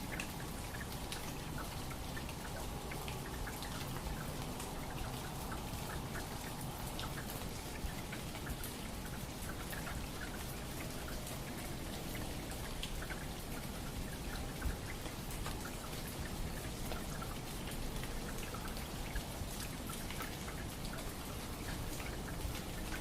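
Steady pattering of many small water drops, like rain, with fine scattered ticks throughout.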